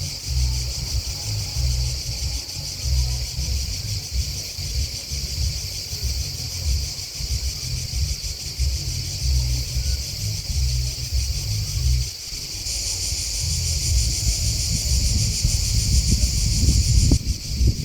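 Chorus of insects chirping: a high, steady trill, louder for a few seconds near the end. Under it runs an uneven low rumble that swells toward the end.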